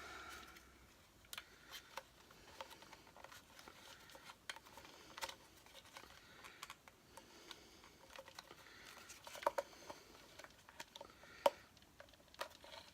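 Quiet hand handling of vacuum-cleaner parts: scattered light clicks and rubbing of plastic and rubber as rubber stoppers are pulled off the motor, with a few sharper ticks, a cluster of them around the middle and one near the end.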